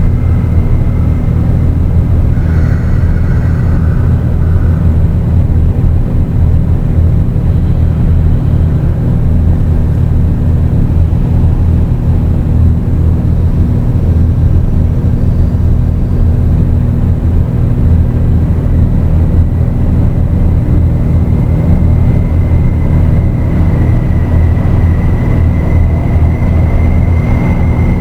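Dark ambient drone music: a loud, steady low synthesizer rumble with held bass tones, a thin high tone above it and a brief higher figure a few seconds in.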